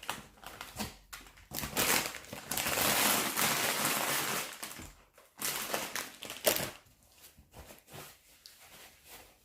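Food packaging being crinkled and rustled by hand, in two long stretches with small clicks and taps after.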